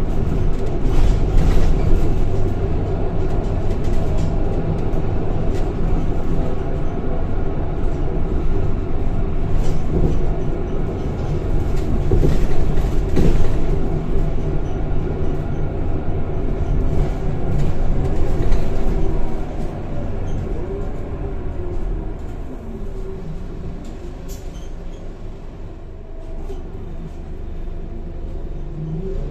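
Scania K230 single-deck bus with a ZF automatic gearbox, heard from on board: engine and driveline running under way with rumble and body rattles. About two-thirds of the way through it eases off and quietens, a whine falling in pitch as the bus slows. Near the end a rising whine starts as it pulls away again.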